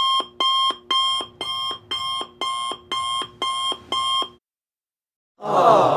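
Digital alarm clock beeping, about nine short electronic beeps at roughly two a second, which then stop. About a second later a crowd begins an 'aww'.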